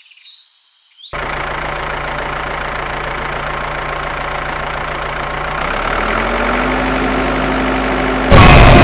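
An engine idling steadily, starting about a second in; its pitch steps up a little past halfway. Near the end a much louder sound with a falling tone breaks in suddenly.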